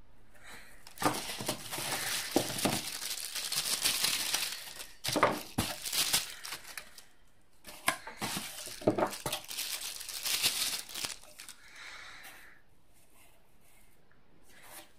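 Packaging crinkling and rustling as terrain pieces are unpacked, in two long stretches with a few light knocks of pieces being handled.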